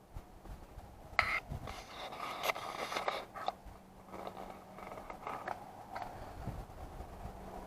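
Irregular scraping and clicking of parts being handled, over a faint steady hum.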